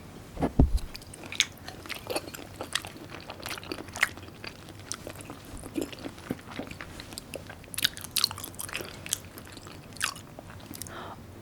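A person chewing and eating close to the microphone: a string of irregular short mouth clicks, with one heavier knock about half a second in.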